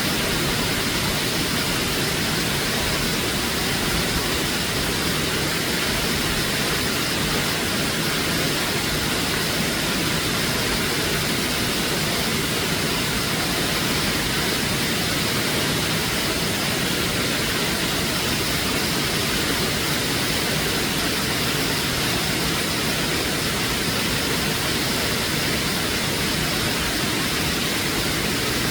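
Waterfall crashing down, a steady, even rush of falling water.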